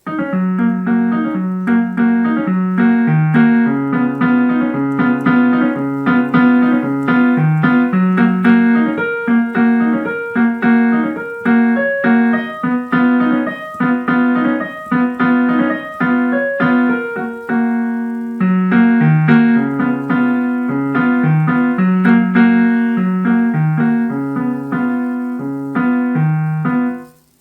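Donner DDP-60 digital piano playing a continuous piano piece, a dense flow of notes over a repeating low bass line, starting suddenly and breaking off at the end.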